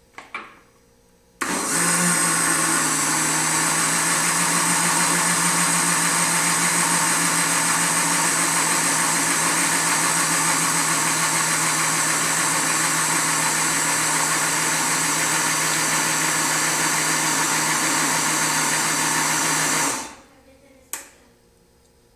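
Electric blender running steadily for about eighteen seconds, mixing crepe batter of milk, flour, egg and salt. It starts abruptly and cuts off, with a click shortly before it starts and another after it stops.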